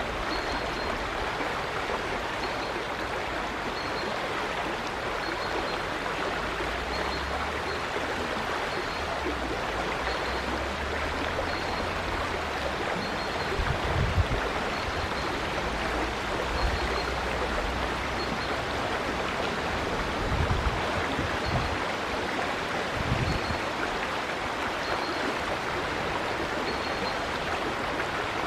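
River water running in a steady rushing flow. A faint, high chirp repeats about every one and a half to two seconds throughout, and a few brief low thumps come around the middle and about two-thirds of the way through.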